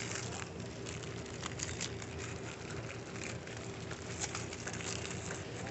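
Shop background: a steady hum under a busy haze of scattered small clicks and crackles.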